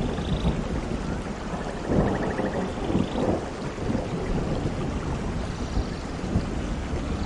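Thunderstorm: steady heavy rain with low rumbling thunder, the rumble swelling about two and three seconds in.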